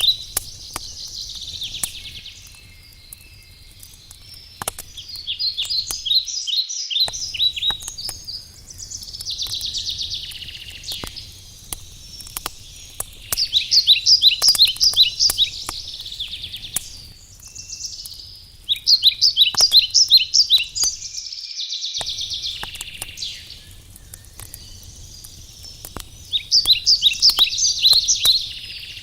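Wood fire crackling with scattered sharp pops, under songbird song. A bird repeats a trilled phrase of rapid high notes every five to six seconds, and these phrases are the loudest sound.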